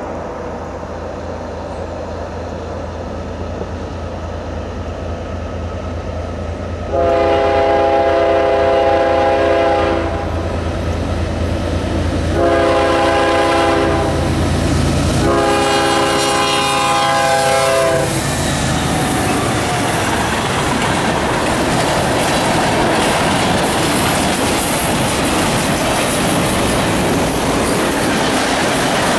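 CSX diesel freight locomotives sounding the horn for a grade crossing over the low drone of their engines: a long blast, a shorter one, then another long one. The locomotives then pass and the freight cars roll by with steady wheel noise and clickety-clack on the rails.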